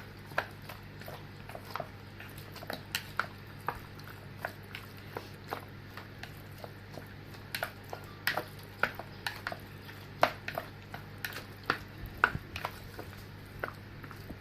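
Raw chicken pieces being mixed with a soy-sauce and cornstarch marinade in a bowl: irregular wet squishes and small clicks, over a faint steady hum.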